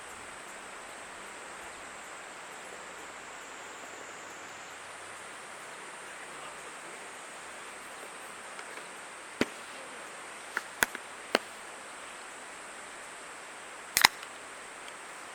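Steady outdoor background noise with a thin, high, steady whine, broken in the second half by a few sharp, short clicks or knocks, the last one the loudest.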